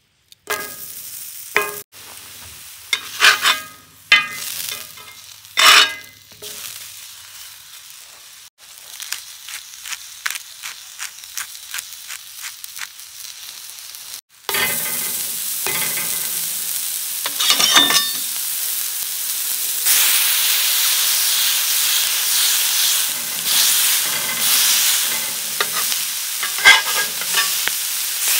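Onion slices and ground-beef smash-burger patties sizzling on a hot cast-iron griddle plate, with a few sharp knocks and scrapes in the first few seconds. About halfway through, the sizzle turns much louder and steadier.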